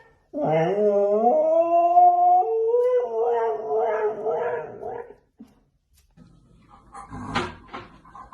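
A dog howling: one long drawn-out howl that rises at the start, then holds and wavers for about four seconds. A few faint knocks and rustles follow near the end.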